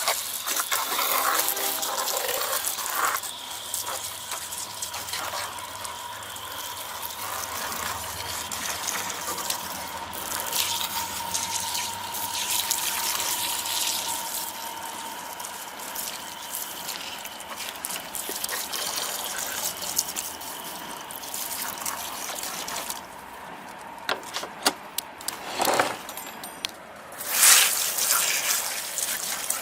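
Garden hose spraying water onto the coils and fins of a window air conditioner, changing as the stream moves; the spray eases off for a few seconds near the end, then comes back with a loud gush.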